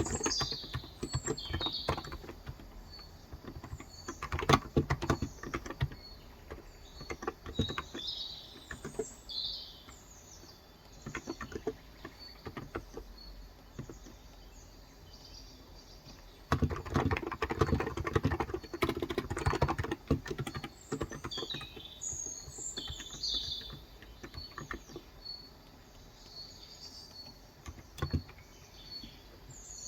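Typing on a Cox Endeavor electro-capacitive (non-contact, 35 g) tenkeyless keyboard, in bursts of keystrokes with pauses between, the longest run about halfway through. Small birds chirp and tweet throughout.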